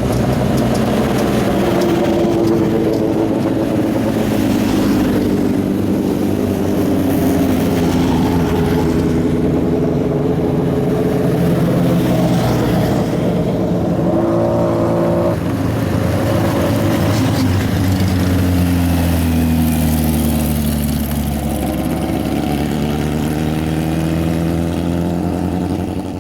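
Competition car engine at high revs, its pitch rising and falling again and again as it accelerates and shifts through the slalom course.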